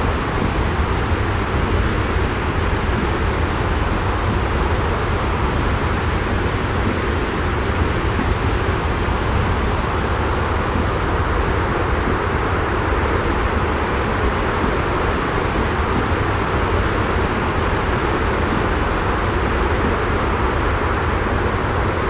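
Steady jet-style white noise: an unbroken deep rumble with an even hiss on top, with no change or separate events.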